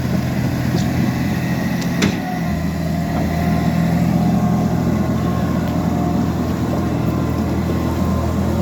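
Liebherr 754 crawler dozer's diesel engine running steadily, with a sharp click about two seconds in.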